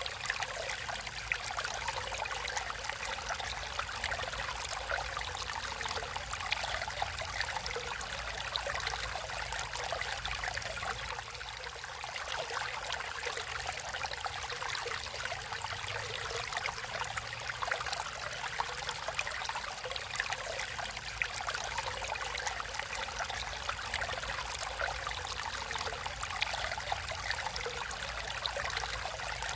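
Water of a natural stream flowing and trickling over rocks, a steady splashing rush full of small droplet sounds.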